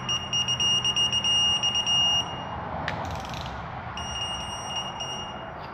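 Electronic torque wrench beeping in quick high-pitched pulses that run into a steady tone, signalling that the target torque of 106 inch-pounds is reached on a head stud. A sharp click about three seconds in, then a second run of beeps.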